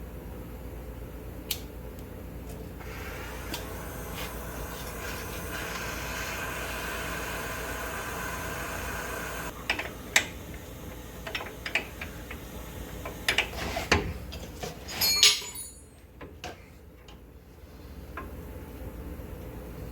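A handheld gas torch hisses steadily for about seven seconds while heating a seized suspension bolt. It is followed by a run of sharp metal clinks and knocks from tools on the bolt.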